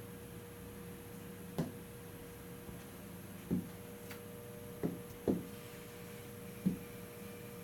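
Five short knocks or clicks at irregular intervals of about a second, over a steady electrical hum, as switchgear controls are worked during a breaker earthing step.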